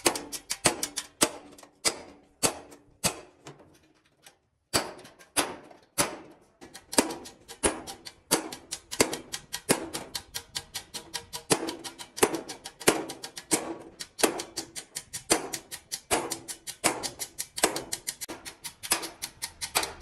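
A rapid, irregular series of sharp taps or knocks, several a second, many leaving a short ringing tone, with a brief pause about four seconds in.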